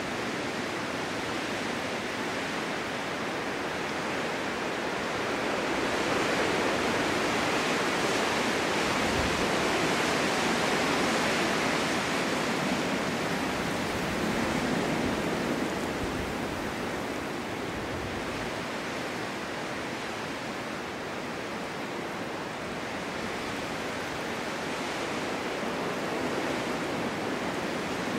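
Snowstorm wind blowing as a steady rushing noise, swelling louder from about six seconds in and easing off again past the middle.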